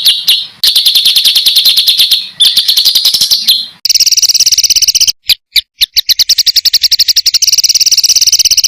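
Recorded songbird calls played for bird training: rapid-fire 'tembakan' phrases of high notes repeated about ten times a second, dense and rough, in spliced-together recordings that cut abruptly from one to the next a little after the start, about two and a half seconds in, and near four seconds in, broken by short gaps around five seconds in.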